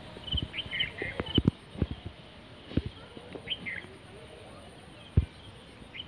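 Small birds chirping: short high chirps and quick sliding notes, clustered in the first four seconds. Several short low thumps come through as well, the loudest about a second and a half in and again near the end.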